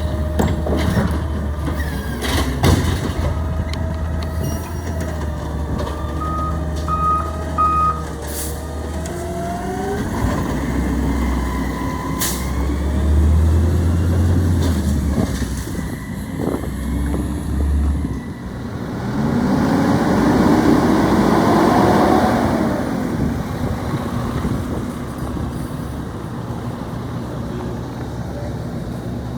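Garbage truck's engine running, with three short reversing beeps about seven seconds in, a couple of sharp clanks, and a louder stretch with a rising whine about twenty seconds in.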